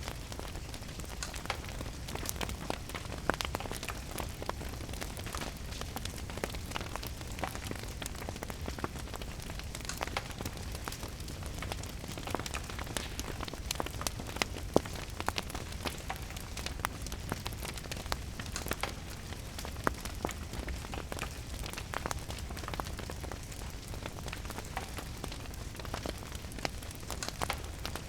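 Steady rain with a wood fire crackling, sharp pops and snaps scattered irregularly over a low, even rumble.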